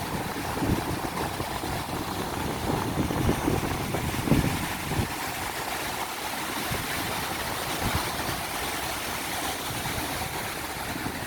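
Ocean surf washing continuously while strong wind buffets the microphone in low gusty rumbles, heaviest around three to five seconds in.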